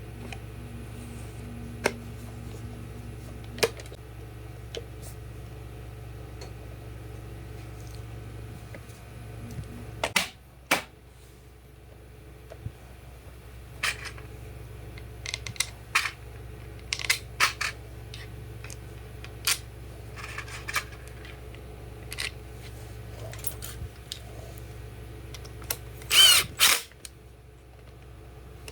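Scattered sharp clicks and knocks as a Makita DHR182 rotary hammer is handled, with a steady low hum in the first third. Near the end come a few short, loud bursts in quick succession.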